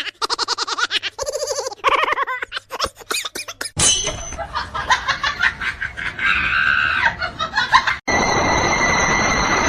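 A person laughing hard in quick pulses for the first few seconds, then an abrupt switch to a noisier stretch, and near the end a steady noise with a held high tone.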